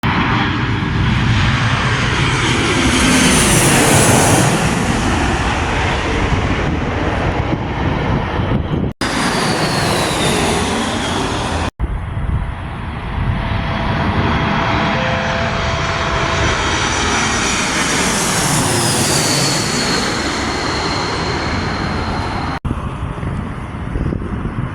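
An airplane passing low overhead, a loud roar with a high whine that falls in pitch as it goes by, heard twice across several abrupt cuts.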